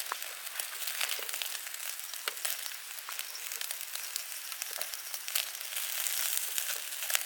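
Meat sizzling on a charcoal shichirin grill: a steady hiss with scattered small crackles and pops.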